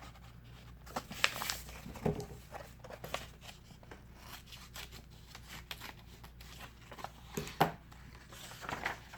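Scissors cutting construction paper: a run of small irregular snips and paper rustles, with a few louder clicks.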